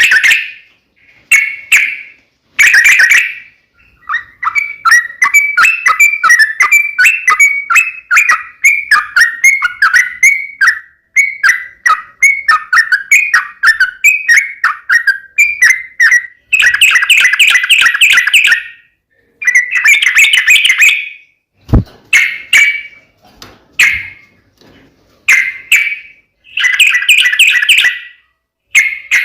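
Yellow-vented bulbul (trucukan) singing loudly in bursts of bubbly phrases, with a long run of rapid chattering notes through the middle. A single sharp knock comes about two-thirds of the way through.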